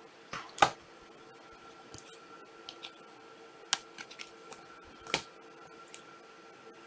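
Trading cards being handled on a table: a string of sharp, irregular clicks and taps as cards are flicked, slid and set down, the loudest about half a second in.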